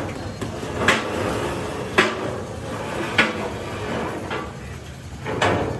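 Hammer blows on metal, four separate strikes about a second or so apart, with a low hum behind them.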